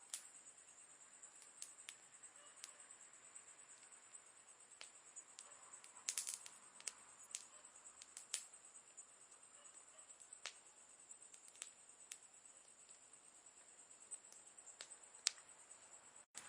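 Campfire wood crackling quietly: scattered sharp pops at irregular intervals, with a brief flurry about six seconds in, over a faint steady high-pitched hiss.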